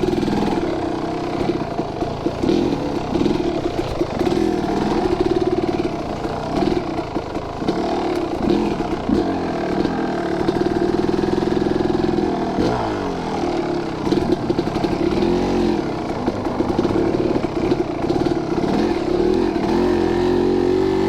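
Two-stroke dirt bike engine of a 2023 Husqvarna TE150 being ridden, its pitch rising and falling over and over as the throttle opens and closes.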